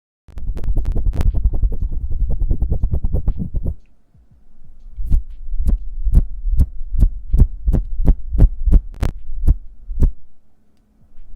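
Hand sounds made close to an ASMR microphone: a rapid flutter of soft taps for about three and a half seconds, then, after a short pause, slower single taps about two to three a second.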